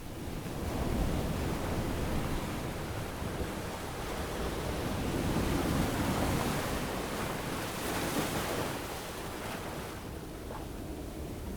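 Ocean surf on a beach: a wave swells and washes in, loudest through the middle with a hissing wash about eight seconds in, then eases off near the end.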